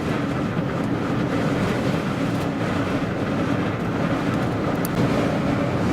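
A vehicle driving, with a steady run of engine and road noise heard from inside the cab, mixed with the noise of strong wind.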